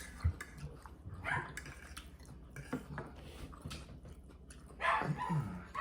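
A pet dog whining with short pitched cries, once about a second in and again near the end.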